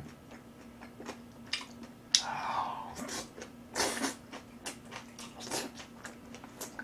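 Close-miked eating: a person chewing and crunching food, with short sucking sips at a spoon, in a run of small sharp clicks and crunches.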